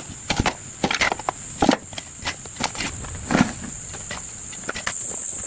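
Irregular knocks and scuffs from manual work, over a steady high insect buzz.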